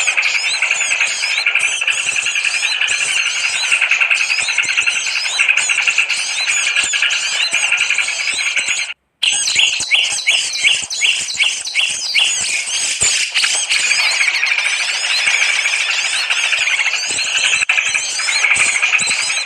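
Bird-lure (pikat) recording of a dense chorus of many small songbirds chirping and twittering. The sound cuts out completely for a moment about nine seconds in, then comes back with a quick run of about eight evenly spaced sharp notes before the chorus closes over again.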